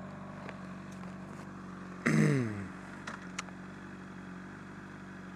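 Motorcycle engine running steadily at low revs. About two seconds in there is a short, louder burst of engine sound whose pitch falls over half a second, like a quick rev settling back.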